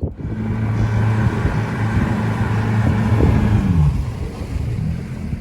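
Boat engine running steadily with a low drone, its pitch falling and its level easing off about four seconds in as it throttles down.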